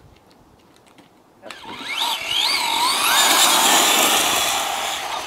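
Traxxas Slash 4x4 RC truck's brushless electric motor whining as the truck drives off on a 3S LiPo, its pitch swooping up and down with the throttle, over the hiss of tyres on gravel-strewn asphalt. It starts abruptly about a second and a half in and eases somewhat near the end as the truck pulls away.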